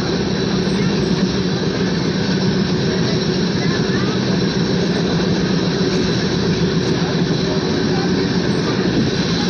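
Steady running noise of an Indian Railways express train in motion, heard from on board the passenger coach: a continuous rumble of wheels on track with no single knocks standing out.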